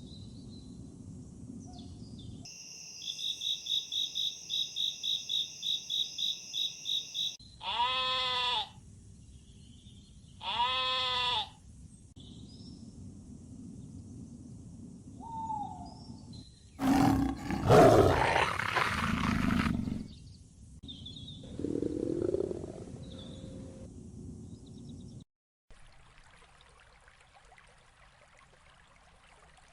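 A run of different animal calls: a fast, high, pulsing call for several seconds, two arching calls a couple of seconds apart, then a loud rough roar about halfway through, the loudest sound, followed by a shorter call. It goes quiet near the end.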